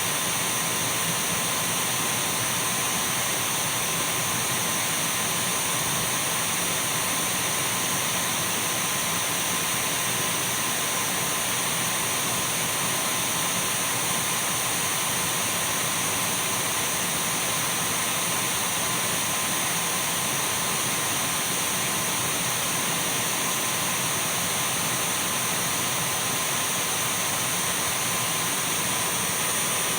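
Dyson V12 cordless stick vacuum running steadily: an unchanging rush of air with a steady whine from the motor.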